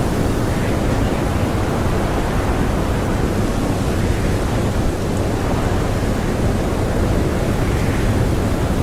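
Strong blizzard wind blowing in a steady, even rush, heaviest in the low end, with no gusts or breaks.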